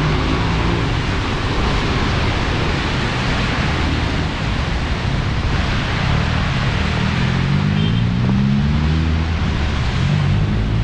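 Heavy monsoon rain pouring steadily, with vehicle engines running in the street traffic; one engine rises in pitch about two-thirds of the way through.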